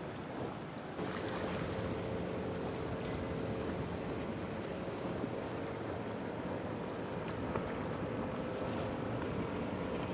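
Boat engine running steadily under wind and surf noise. It gets louder about a second in and holds there.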